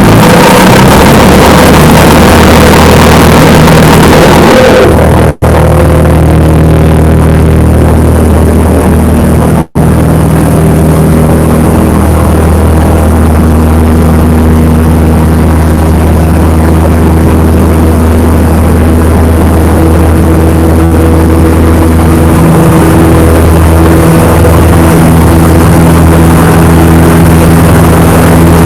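Cessna 172 Skyhawk's piston engine and propeller heard from inside the cockpit as a loud, steady drone during takeoff and climb-out. The higher hiss of air noise falls away about five seconds in, and the sound cuts out briefly twice.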